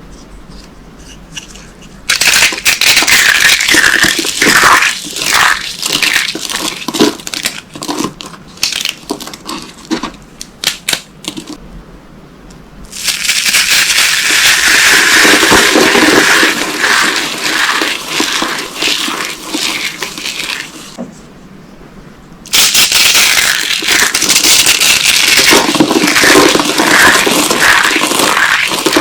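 Dry soap boxes dusted with corn starch being crushed, giving a dense, loud crunching and crackling. It comes in three long bouts, with short quieter pauses between them, one about two seconds in and another about a third of the way through.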